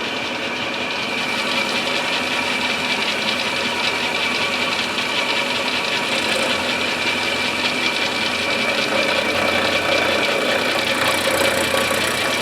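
Milling machine running steadily with a constant whine, its end mill cutting into the English walnut stock with a fine, rapid rattling chatter.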